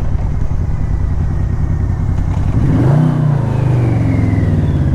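Yamaha VMAX1200's V4 engine running at low road speed, with a short rev up and back down about three seconds in.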